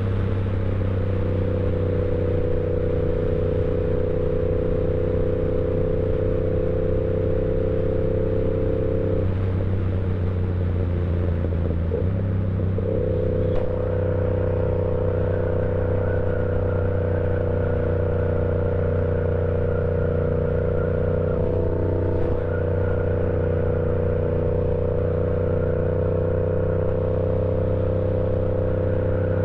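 Yamaha R7 sport bike engine running steadily on the move, with a loud, even engine note and a rush of wind. Between about nine and thirteen seconds in the note breaks up and shifts, then settles back into a steady drone.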